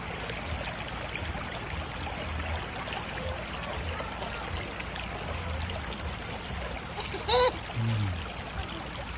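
Water running in a stream, a steady rushing. About seven seconds in comes a short, loud, high call that rises in pitch, followed by a brief low sound.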